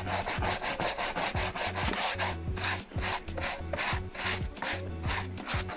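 Rapid back-and-forth scrubbing strokes, about four a second, on the roof lining board, as when scrubbing or sanding away the old deteriorated foam from a sagging headliner.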